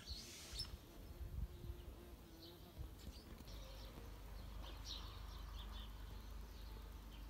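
Faint outdoor ambience: small birds giving a few short, high chirps, several of them about five seconds in, over a low rumble.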